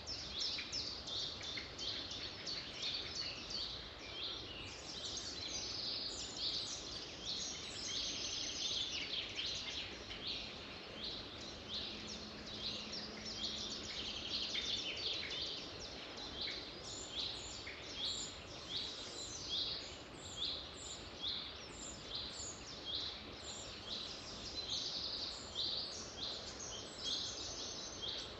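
Several birds singing and chirping at once, a dense run of short, quick, high notes overlapping one another over a low background hiss.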